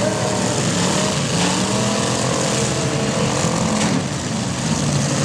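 Several demolition derby cars' engines revving hard together, their pitch rising and falling as the cars spin their wheels and manoeuvre.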